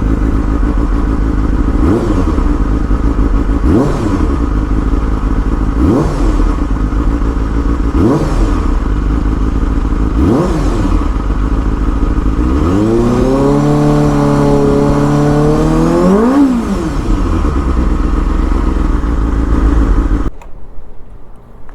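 Honda Hornet 250's inline four-cylinder engine through a Yamamoto Racing aftermarket exhaust, idling with quick throttle blips about every two seconds. It is then revved up and held high for about four seconds before dropping back to idle, and the sound cuts off sharply near the end.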